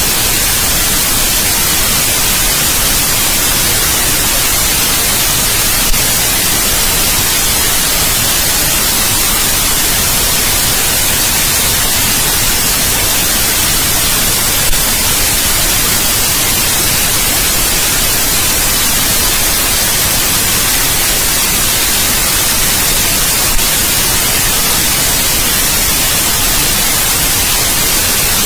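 Steady white noise: an even, unchanging hiss, brightest in the high end, broken only by three faint brief clicks about nine seconds apart.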